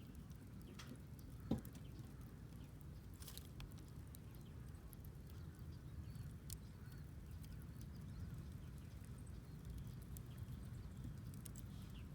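Wood fire crackling, with irregular sharp snaps and pops over a low steady rumble, and one louder knock about a second and a half in.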